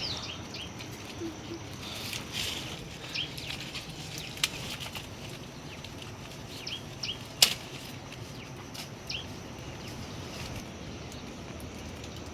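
A small bird calling in short runs of quick high chirps, a few seconds apart, over a steady outdoor hiss. Two or three sharp clicks stand out, the loudest about halfway through.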